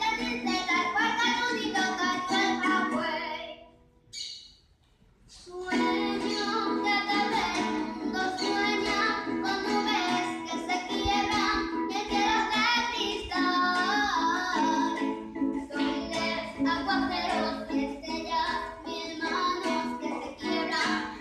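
Llanero-style song: a voice singing over plucked-string accompaniment. The music breaks off to near silence about four seconds in and resumes a second and a half later.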